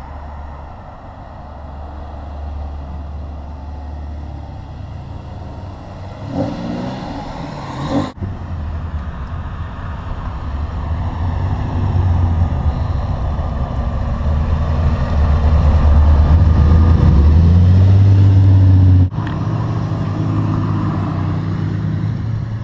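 Car engine running and pulling under acceleration, heard from a camera mounted on the moving car, with wind rushing over the microphone. The engine grows louder over several seconds, then the sound cuts off abruptly and a quieter engine note carries on.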